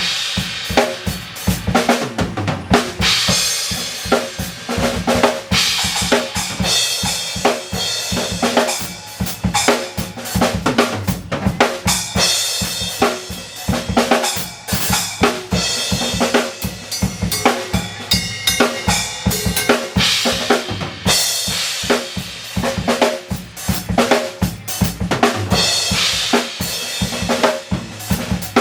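Drum kit played in a steady groove, kick, snare and cymbals hitting continuously over a recorded pop song.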